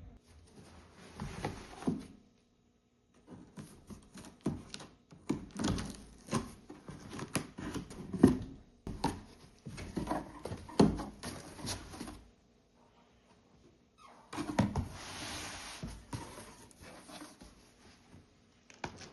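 Irregular knocks, taps and clatter of household objects being handled and set down, with a short stretch of hiss about fifteen seconds in.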